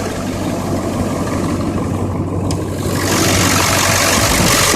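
Ford 7.3 Powerstroke turbo-diesel V8 idling steadily, still warming up after a cold start. It gets louder about three seconds in.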